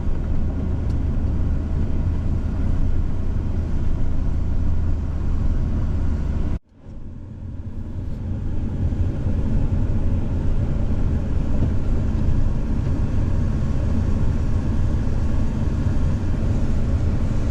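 Vehicle running steadily, a low engine and road hum heard from inside the cab. About a third of the way through, the sound drops out abruptly and then builds back up to the same steady hum.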